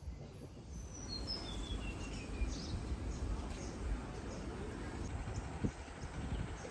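A bird calling a quick run of about eight short notes that step down in pitch, over a steady low background rumble, with a single knock near the end.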